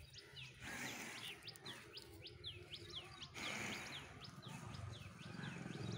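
Small birds chirping continuously, a quick string of short high sweeping notes several times a second, over a low hiss that grows a little louder after about three seconds.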